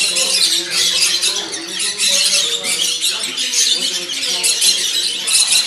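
Many caged birds chirping and twittering at once in a dense, continuous chorus, over a murmur of people talking.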